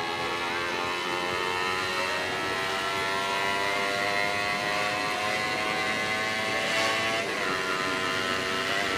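Honda CBR250RR motorcycle engine running steadily through a custom aftermarket exhaust, holding a near-constant speed with its pitch drifting only slightly.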